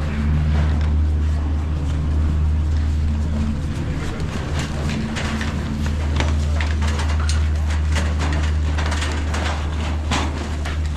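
A steady low machine hum, with rapid clicking and clattering over it for much of the time.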